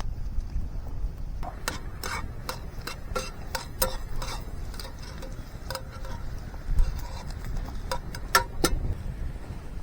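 Irregular sharp clicks and light knocks, a few a second, over a low rumble of wind on the microphone.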